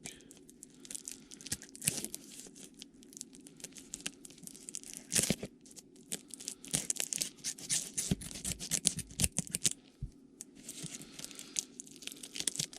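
Plastic shrink-wrap on a trading-card box being cut and torn off, crinkling and crackling irregularly, with a louder rip about five seconds in.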